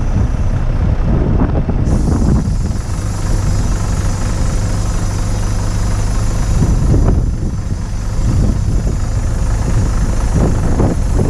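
Diesel engine of a crane truck running steadily while the truck-mounted crane is worked, with strong wind buffeting the microphone.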